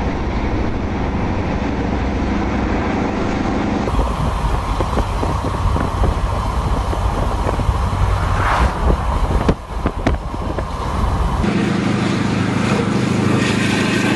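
A diesel-electric locomotive's engine runs with a steady low hum as it approaches. About four seconds in, this gives way to the rumble of tyres and wind heard from a car driving alongside a container freight train. A steady engine hum returns near the end as the train passes.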